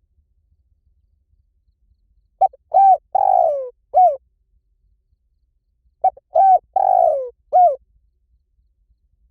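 Spotted dove cooing: two identical phrases about three and a half seconds apart, each of four coos, the third coo the longest and falling in pitch at its end.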